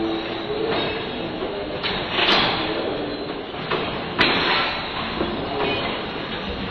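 Passenger train coaches rolling past with a steady rumbling rattle of wheels on the rails, broken by two sharp clacks about two and four seconds in.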